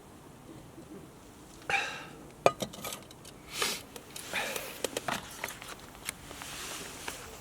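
Objects being handled: a run of sharp clicks and knocks with short scraping, rustling noises in between, starting a little under two seconds in.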